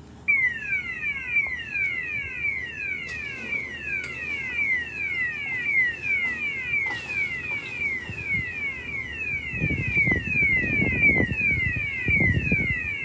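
Automatic gate operator's warning alarm sounding as the gate starts: a fast, steady run of falling electronic chirps, about two and a half a second. A low rumble joins from about eight seconds in.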